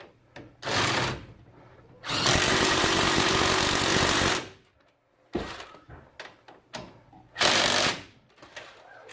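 Power tool driving in a hub-assembly mounting bolt in bursts: a short burst, then a longer run of about two seconds, then another short burst, with small clicks and knocks between them.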